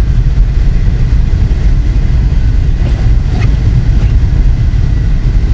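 Blizzard wind buffeting the microphone: a loud, rough low rumble with constantly shifting loudness.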